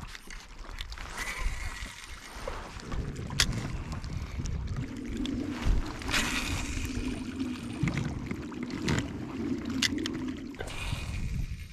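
Water sloshing and splashing around a kayak, with a few sharp knocks against the boat. A steady low hum runs from about five seconds in to near the end.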